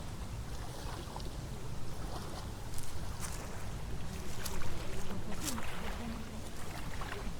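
Wind rumbling on the microphone, with scattered short clicks, more of them in the second half.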